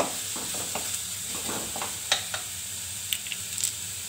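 Chopped onion sizzling in hot oil in an aluminium kadai. A wooden spatula scrapes and knocks against the pan several times during the first two seconds or so, and there are a few light clicks near the end.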